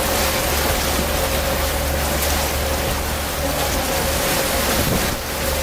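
Tour boat's engine running steadily with a constant hum, under an even rush of wind and water noise.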